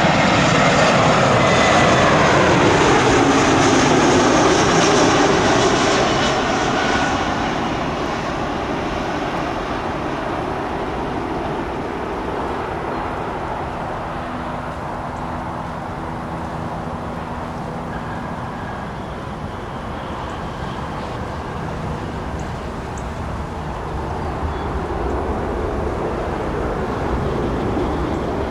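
Jet airliner's engines passing close by, their pitch falling as the aircraft goes past, then fading within several seconds into a steady distant rumble.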